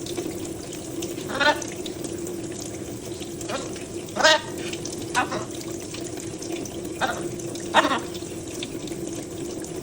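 Tap water running steadily into a sink, with a pet parrot giving about six short, loud squawks during its bath.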